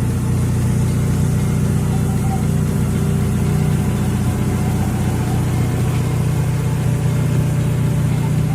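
A motor running steadily with a low hum and a fast, even low pulsing.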